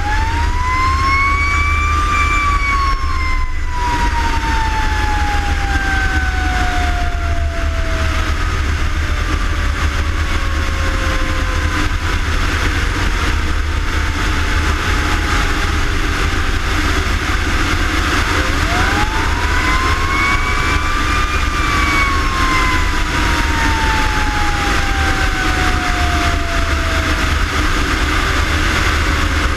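Fire engine siren sounding twice, each time winding up quickly to a high pitch and then falling slowly over several seconds. Under it a heavy vehicle engine and road noise run on as a steady low rumble.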